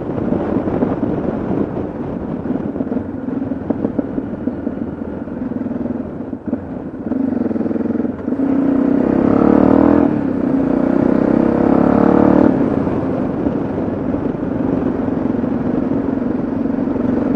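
Yamaha XT660Z Ténéré's single-cylinder 660 cc engine running on the road. It dips briefly twice, then pulls hard twice in the middle, rising in pitch and louder, before settling back to a steady cruise.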